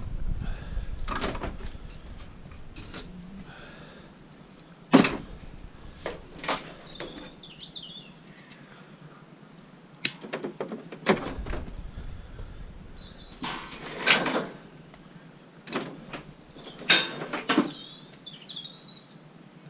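Scattered sharp knocks and clanks of scrap being worked apart by hand, about a dozen hits, the loudest about five seconds in. Birds chirp briefly between the knocks.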